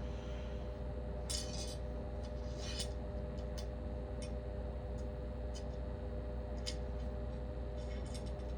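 Small metal lamp parts clinking and rattling as they are handled during assembly: two short rattles in the first few seconds, then a few scattered light clicks, over a steady low hum.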